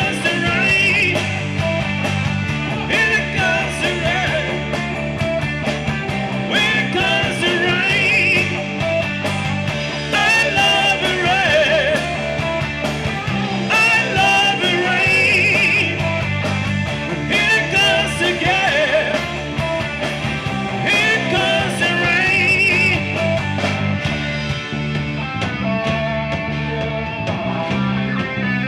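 Live rock band playing: electric guitar, bass and drums, with singing over a steady, repeating bass line.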